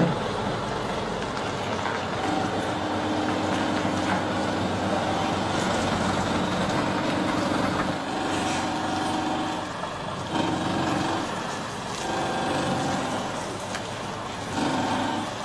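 Heavy truck's engine running, its note swelling and easing in several stretches, over road and mechanical noise.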